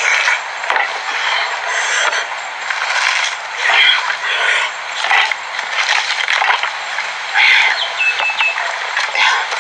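Close-miked chewing of mango, in irregular bursts one after another.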